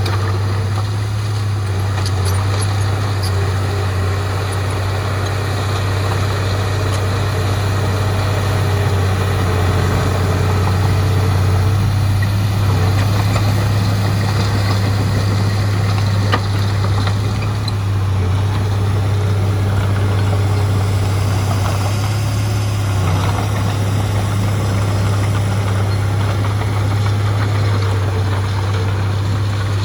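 Heavy diesel engine of earthmoving machinery running steadily, a constant low drone that barely changes in level.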